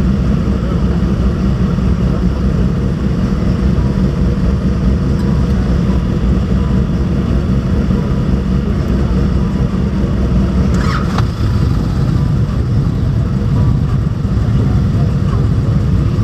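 Motorcycle engines running in a steady low rumble, with a brief higher-pitched sound about eleven seconds in.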